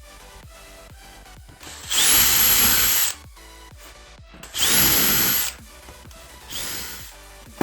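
A power tool run in three short bursts, each starting with a quick rising whine as the motor spins up; the first two are loud and about a second long, the third fainter and shorter. Background music with a steady beat plays underneath.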